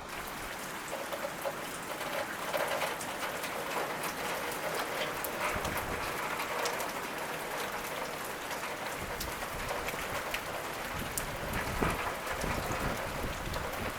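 Storm rain hissing and pattering, with many small drop hits, while strong gusts of wind buffet the microphone with a low rumble that grows heavier in the second half.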